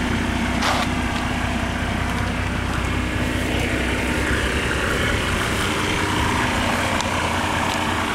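1987 Mercedes-Benz 300D's turbocharged inline-six diesel idling steadily through its stock Mercedes muffler and silencer, running on straight vegetable oil.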